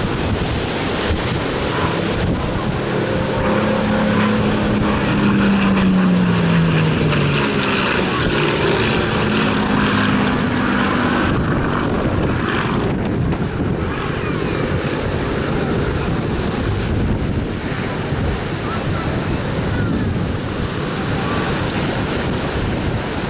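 Spitfire Mk IX's Rolls-Royce Merlin V12 engine passing in a display, its pitch falling as it goes by about four to seven seconds in, under heavy wind noise on the microphone.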